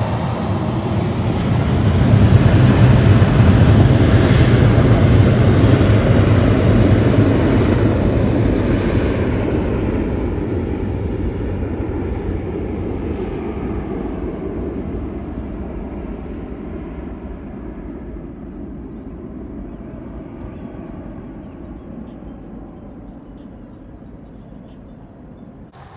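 Airliner's engines passing close, loudest a few seconds in, then fading away gradually over about twenty seconds as the aircraft recedes.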